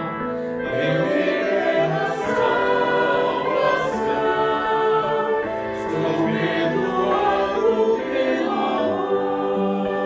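Church choir singing a hymn in Portuguese, many voices holding long sustained chords.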